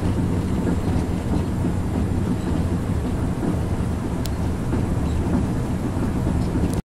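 Steady low rumble and rush of a Renfe AVE high-speed train, heard from inside the passenger carriage as it runs. It cuts off abruptly near the end.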